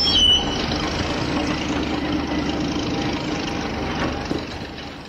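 A motor running steadily with a low hum, fading near the end, as the toy excavator digs sand.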